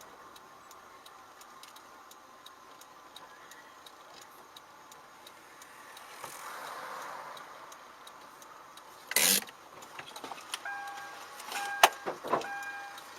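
Faint car-cabin noise with soft regular ticking. A sudden loud noise comes about nine seconds in, then repeated short electronic beeps with a few sharp knocks.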